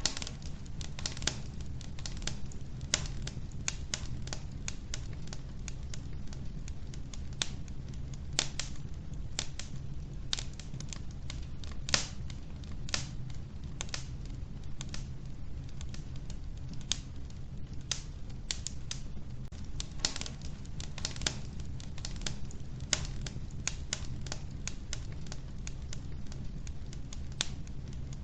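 Wood fire burning in a wood stove: irregular sharp crackles and pops from the burning logs over a steady low rumble of the flames.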